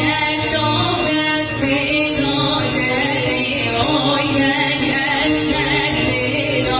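A woman singing a melody over instrumental accompaniment.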